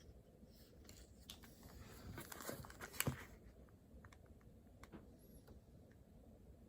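Faint handling noises at a study desk: scattered small clicks, with a louder rustling stretch that ends in a sharp knock about three seconds in.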